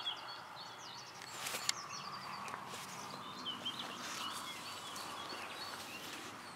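Birds chirping and singing in short repeated notes over a faint steady outdoor background, with a soft click about a second and a half in.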